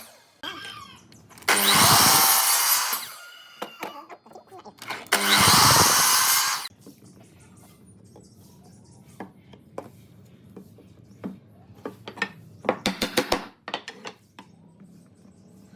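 A handheld power tool cutting or working wood in two short bursts of about a second and a half each, followed by light clicks and knocks of tools and wood being handled, with a quick run of ticks near the end.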